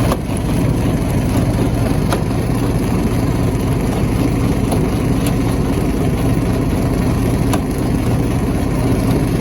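Stone crusher running with a steady low mechanical drone, with a few faint sharp knocks over it.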